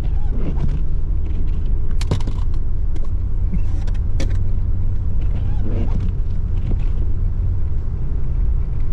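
Steady low rumble of a car driving on a snow-covered road, heard inside the cabin, with two sharp clicks about 2 and 4 seconds in.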